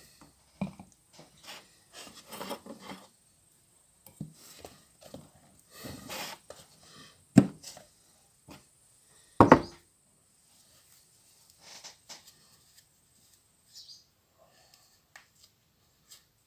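Irregular knocks, clicks and rubbing of things being handled during work on a car, with two loud sharp knocks about two seconds apart midway through.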